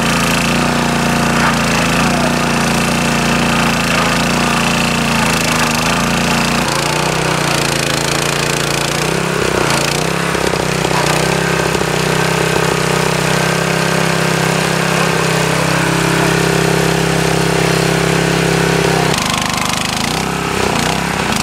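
A small engine-driven track machine running loud and steady at a rail thermite weld, with rough grinding or rattling over the engine note. The engine note shifts down about 7 seconds in and changes again about 19 seconds in.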